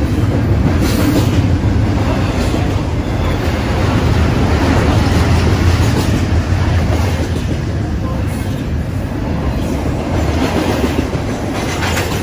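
Double-stack intermodal freight train's container well cars rolling past at speed: a loud, steady deep rumble of steel wheels on rail, with a few sharp clanks, one near the end.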